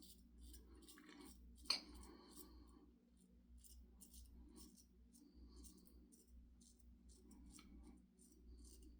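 IBC Kamasori shavette blade scraping through three or four days' stubble in short strokes: a run of faint, quick rasps, with one sharper click a little under two seconds in.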